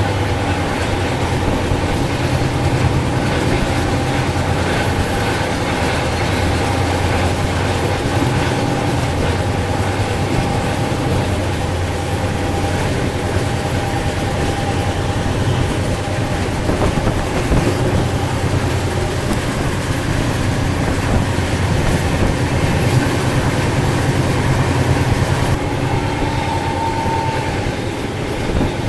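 Double-decker express passenger train running at speed: a steady rumble and rattle of the coach's wheels on the track, with a faint clickety-clack from the rails.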